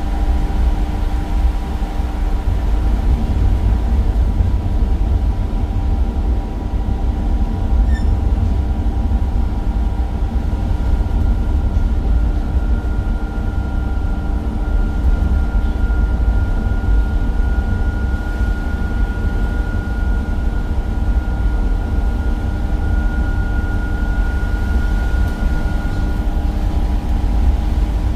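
Cummins diesel engine and ZF automatic gearbox of a Temsa Avenue single-deck bus running under way, a steady low rumble with a few steady whining tones. A higher whine comes in about halfway through, rises slightly, and fades out shortly before the end.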